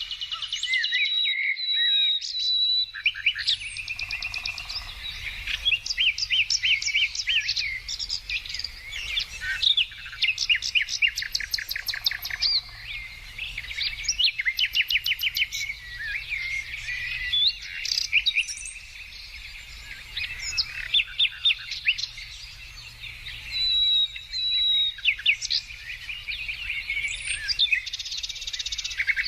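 Several songbirds singing at once, overlapping rapid trills, short clear whistles and chirps, with no pause.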